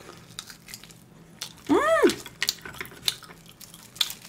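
A person chewing a bite of salt-grilled pork rib, with small scattered mouth clicks, and a short humming "mm" that rises and falls about two seconds in.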